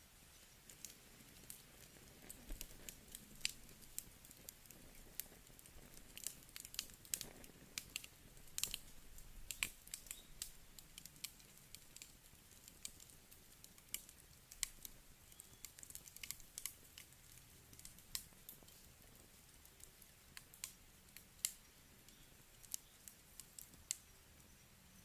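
Campfire of burning firewood crackling: irregular sharp pops and snaps over a faint hiss, coming several a second at times.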